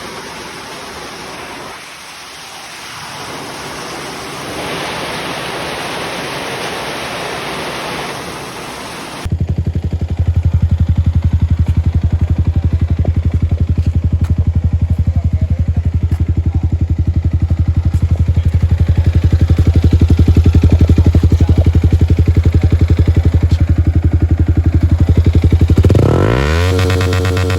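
Wind and road noise for the first several seconds, then a Yamaha R15 V3's single-cylinder engine through an aftermarket Akrapovic exhaust, running at a steady, unchanging speed with an even pulsing note. Near the end, a rising synth sweep of music comes in.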